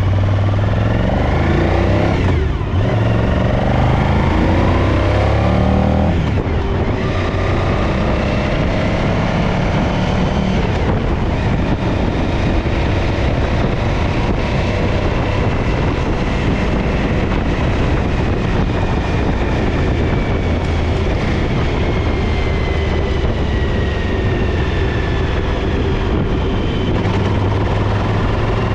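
Suzuki DL1000 V-Strom's 90-degree V-twin engine running with its rear cylinder misfiring. The engine note shifts up and down in the first several seconds, then settles into a rougher, steadier sound.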